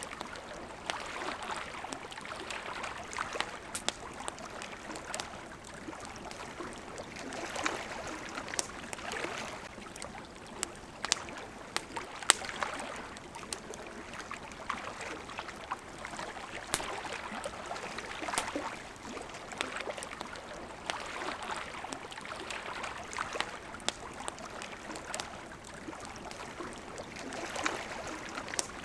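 Water lapping in gentle swells that rise and fall every few seconds, with a campfire crackling over it in scattered sharp pops.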